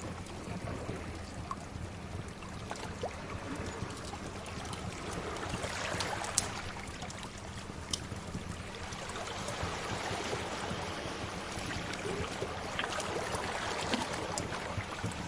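Sea waves washing in a steady, slowly swelling rush, with a wood fire crackling over it in scattered sharp pops.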